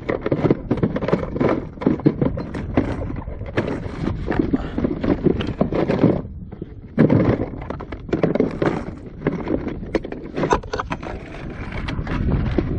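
Rapid, irregular knocking and scraping on a kayak as a freshly landed muskie is handled aboard, with a short lull about six seconds in.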